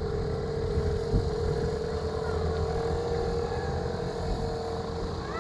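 Small motors of bumper boats running steadily, a constant hum held on one pitch over a low rumble.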